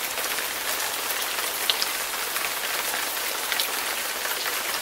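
Steady rain falling: an even hiss with scattered light taps of drops.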